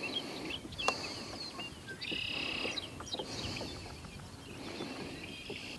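Several birds chirping in short calls, with one buzzy call lasting under a second about two seconds in, over a low outdoor rumble; a single sharp click just under a second in.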